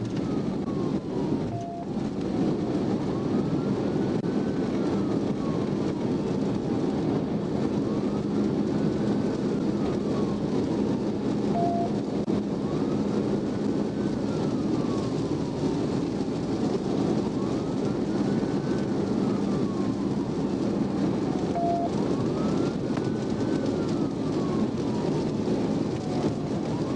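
Police patrol car siren in a slow wail, rising and falling about every five seconds, heard from inside the car under loud road and engine noise at high speed. A short beep sounds about every ten seconds.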